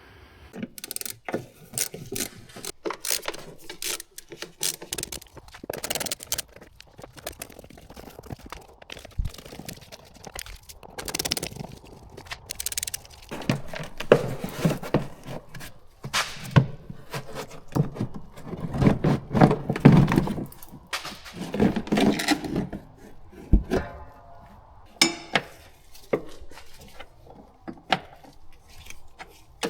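Irregular metallic clanks, clinks and knocks of hand tools and steel parts being handled during rear suspension work on a car, coming in scattered bursts with a busier stretch in the middle.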